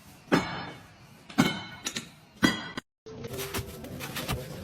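Three sharp strikes about a second apart, each leaving a ringing tone that fades, then a brief dropout and a run of light clicks and taps.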